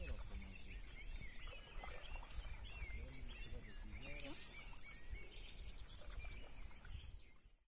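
Birds chirping and calling over a steady low rumble of wind on the microphone.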